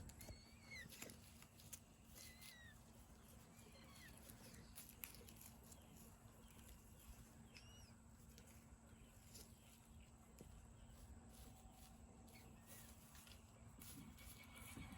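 Faint, sparse bird chirps, a few short calls scattered through the first half, over a quiet background with a faint steady hum.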